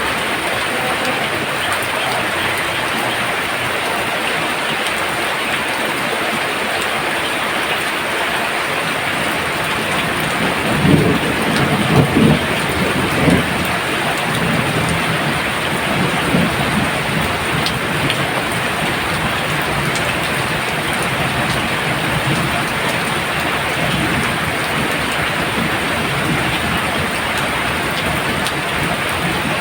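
Heavy rain pouring down in a steady dense hiss. About eleven seconds in, a low rumble of thunder swells and fades over a couple of seconds.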